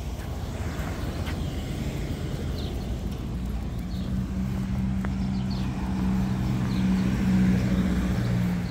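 A motor vehicle's engine humming at a steady pitch over low traffic rumble. The hum comes in about three and a half seconds in and grows louder toward the end.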